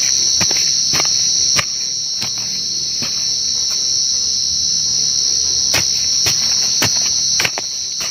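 A cricket singing a loud, steady, high-pitched trill close by, with scattered sharp clicks and knocks over it, two of them louder, about one and a half seconds in and near the end.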